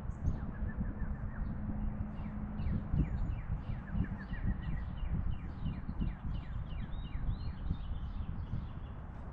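A small wild songbird singing rapid runs of short, high, falling chirps, repeated several times, over a steady low rumble.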